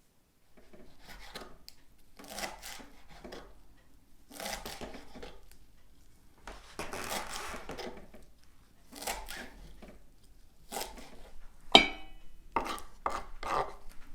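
Repeated rough scraping or rasping strokes from hand kitchen work, about a second each at an uneven pace, with one sharp knock near the end.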